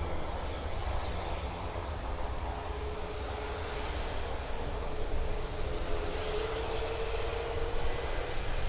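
Boeing 737-800 freighter's CFM56 jet engines on approach, a steady jet rumble with a faint whine that grows stronger in the second half.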